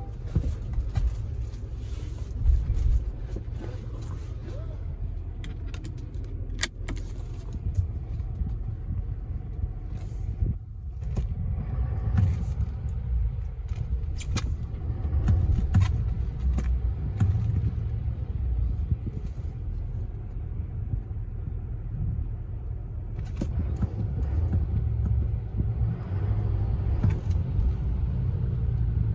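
Low, steady motor-vehicle rumble that swells and eases in places, with scattered clicks and knocks.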